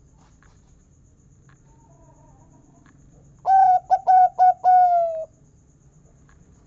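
Zebra dove (perkutut) cooing one song phrase about halfway through: a quick run of short clipped notes ending in a long, slightly falling 'kung' note.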